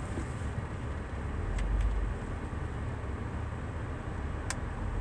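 Car running along a road, heard as a steady low rumble of engine and tyre noise that swells briefly about a second and a half in, with a few faint light clicks.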